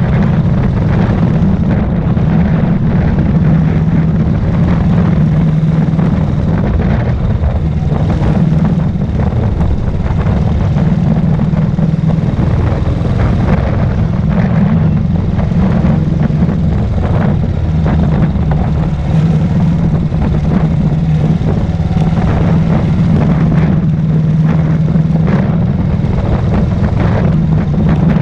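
Royal Enfield Thunderbird's single-cylinder four-stroke engine thumping steadily as the motorcycle cruises at an even speed.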